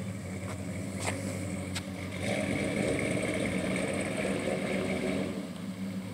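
1948 Ford Club Coupe street rod's engine pulling away, with a steady low drone that swells from about two seconds in to about five seconds in as the car accelerates.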